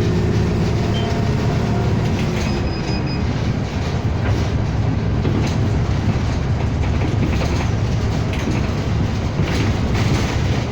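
City bus under way, heard from inside the cabin: a steady low rumble of engine and road noise, with scattered rattles and clicks from the body and fittings.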